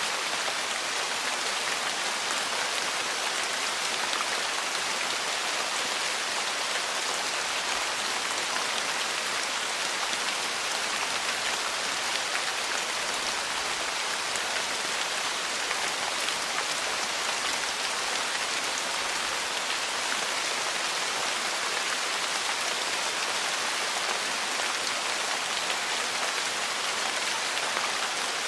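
Steady rain falling on a porch: an even, constant hiss that doesn't change.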